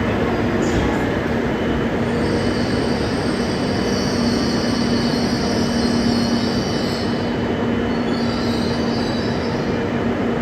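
E956 ALFA-X Shinkansen test train running slowly into a station platform: a steady rumble and hum, with a high squeal from about two seconds in to about seven seconds, and again briefly near the end.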